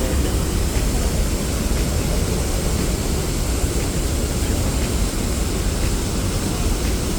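Steady roar of Niagara Falls' water, a constant rushing noise with a heavy low rumble.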